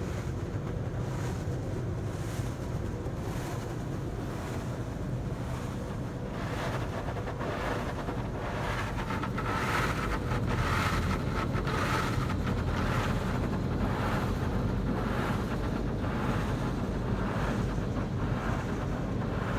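Car wash tunnel's pre-soak foam being sprayed over the car, a steady rushing hiss heard from inside the cabin over a low hum of the tunnel machinery. The spray gets louder about six seconds in as it covers the car.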